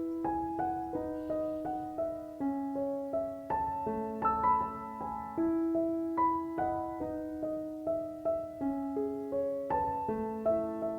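Background music: a gentle piano melody, single notes struck one after another and left to ring.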